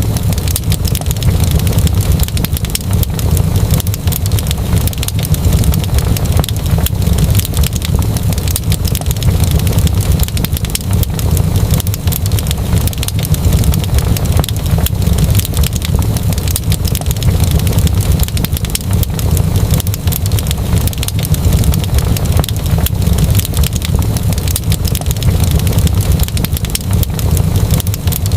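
Wood fire crackling in a fireplace: a steady low rumble of the burning fire with dense, irregular pops and crackles throughout.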